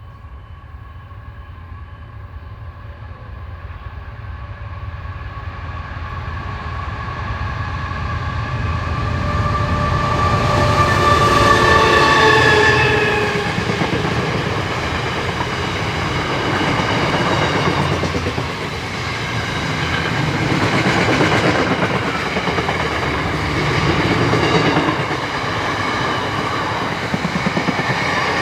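Diesel locomotives approach and pass, their engine drone building and then dropping slightly in pitch as they go by about halfway through. Train wagons then roll past with a steady rhythmic clickety-clack of wheels over rail joints.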